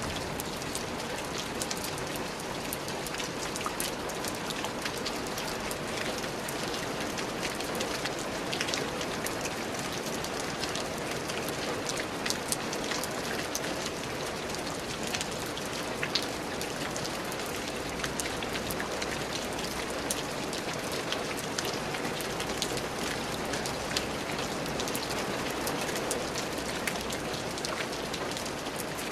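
Steady rain falling, a constant hiss with many distinct drops pattering on a surface.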